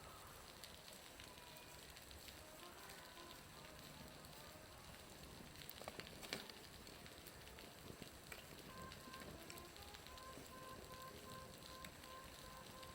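Faint, dense crackling patter of water falling from a building's roof, which sounds much like a crackling bonfire; one louder snap about six seconds in.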